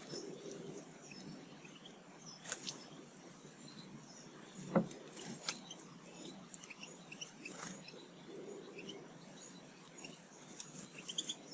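Small garden birds chirping in short, scattered calls. Several sharp taps sound among them, the loudest about five seconds in.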